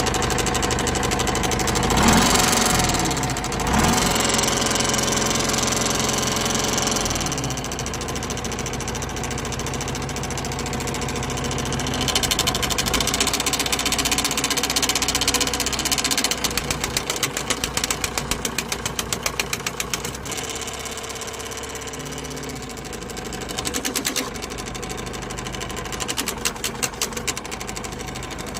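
Caterpillar 424 backhoe loader's diesel engine running, with a fast rhythmic knocking or rattle that comes and goes. The noise is taken to be a hydraulic pump problem.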